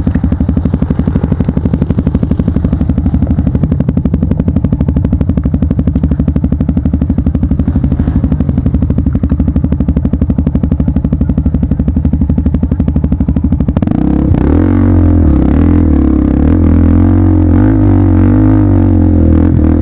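Motorcycle engine running steadily with a fast, even beat. About fourteen seconds in, music with guitar and bass guitar comes in and takes over.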